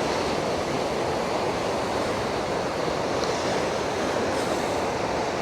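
Steady rush of ocean surf, unbroken and even in level.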